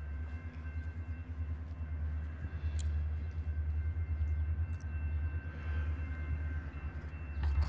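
Low rumble of an approaching train, growing louder, with faint steady high tones held above it.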